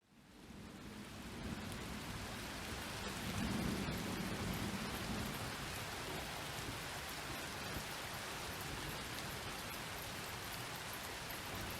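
Steady rain with a low rumble of thunder swelling a few seconds in. The sound fades in from a brief silence at the start.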